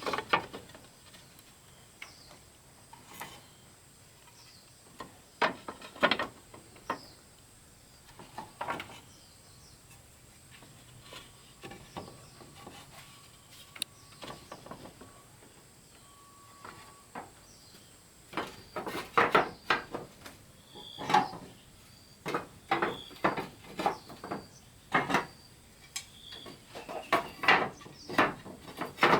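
Irregular knocks and clatter, a few scattered strikes at first, then coming thick and fast in the last ten seconds.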